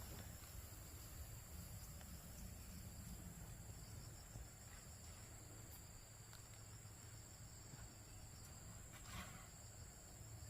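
Faint, steady high-pitched chirring of insects over a low rumble, with a brief rustle about nine seconds in.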